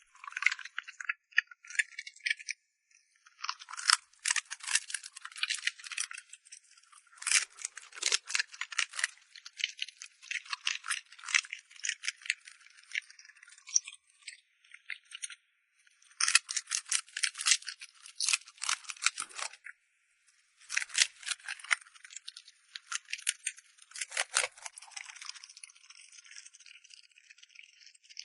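A dog eating from a bowl: bursts of rapid, crisp clicking and rattling lasting a few seconds each, with short pauses between.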